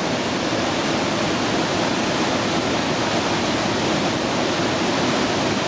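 Pailón del Diablo waterfall: a loud, steady rush of falling water with no breaks.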